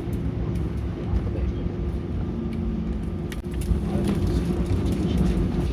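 Cabin noise inside an Airbus A319 taxiing on the ground: a steady low rumble with a constant hum from the idling engines, with scattered clicks and rattles from about three seconds in.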